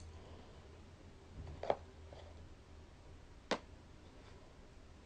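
Quiet room tone with a low hum, broken by two brief clicks about two seconds apart, the second sharper.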